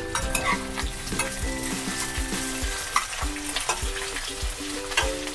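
Chopped drumsticks, okra, onion and tomato sizzling in hot mustard oil in a pan, stirred with a spatula, over background music with a steady beat.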